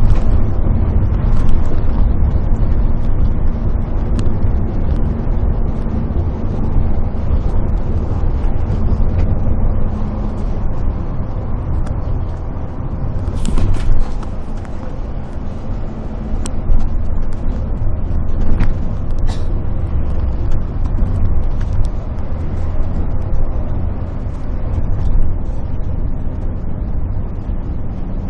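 Intercity bus on the move: a loud, steady low engine and road rumble, with a steady hum that fades about a third of the way in and a short, sharp burst about halfway through.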